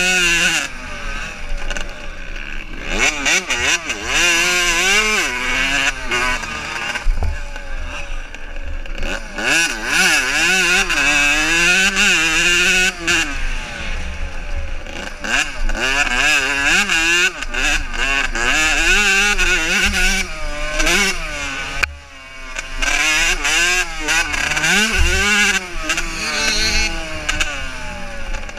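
Motocross bikes racing, their engines revving up and falling back again and again as they accelerate and shift. The sound dips briefly about two-thirds of the way through.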